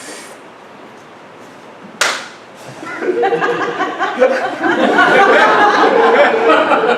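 A single sharp slap about two seconds in, one performer hitting another, followed by a theater audience bursting into loud, sustained laughter.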